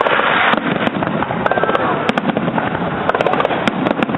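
Fireworks display going off: a dense, continuous crackle of many small sharp reports at irregular intervals over a steady rushing noise.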